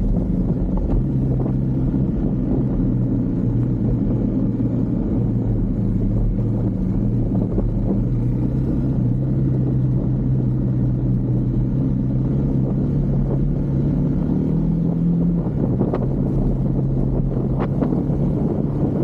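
Husqvarna Svartpilen 401's single-cylinder engine running under way, its note holding steady and then rising slightly before dropping back about fifteen seconds in, over a low rumble of wind and road noise. A couple of brief clicks sound near the end.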